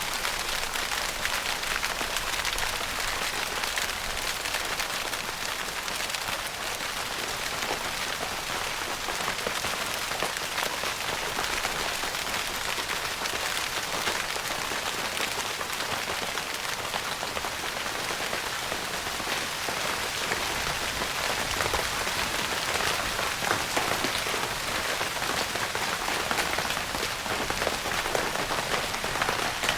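Steady rain pattering on a tent's fabric roof, a dense even hiss full of many small drop ticks.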